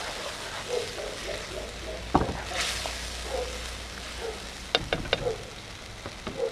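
Food sizzling steadily as it fries in oil, with a sharp clack of a utensil against a pan about two seconds in and a few lighter clicks near five seconds.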